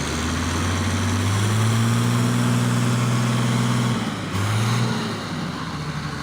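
Tractor diesel engine working under load, its pitch rising a little and holding, then dropping about four seconds in, with a short rev just after and a quieter, lower run near the end.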